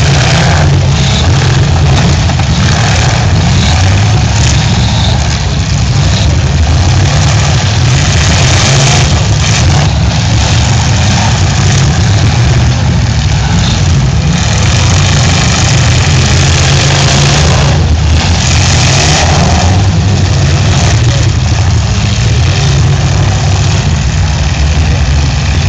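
Demolition derby car engines running loudly and steadily, with a heavy low rumble.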